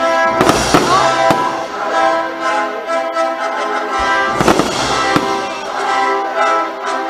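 Fireworks bursting over loud orchestral show music led by brass. The biggest bangs come about half a second in and again about four and a half seconds in, with lighter crackles between.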